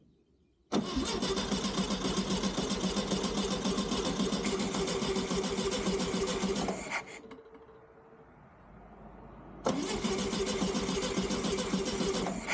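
A 1969 Volkswagen Beetle's air-cooled flat-four being turned over on the starter in two bursts, a long one of about six seconds and then a shorter one about three seconds later. Each burst starts and stops abruptly, and the engine does not catch.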